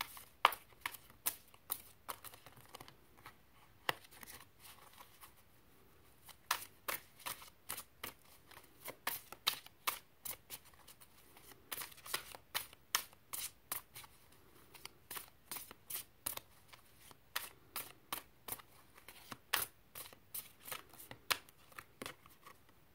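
A deck of tarot cards being shuffled by hand. The cards make crisp snaps and taps, a few at first, then a quick irregular run of several a second from about six seconds in.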